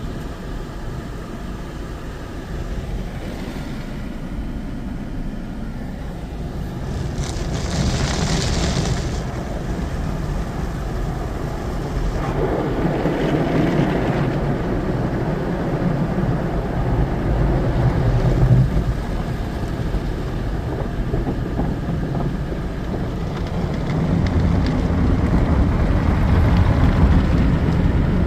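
Automatic car wash running: a steady low rumble of machinery, with a spell of hissing spray about seven seconds in and a louder spell of washing noise from about twelve seconds.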